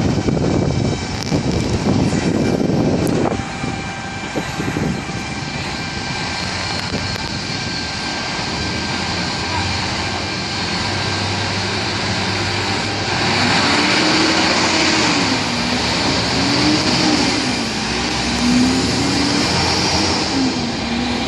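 Steady vehicle and road noise, heavier rumble in the first few seconds. From about halfway through, a tone slowly rises and falls over it.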